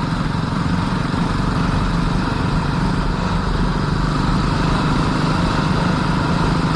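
Royal Enfield Classic 350's single-cylinder engine running steadily while the motorcycle is ridden, with wind noise over the microphone.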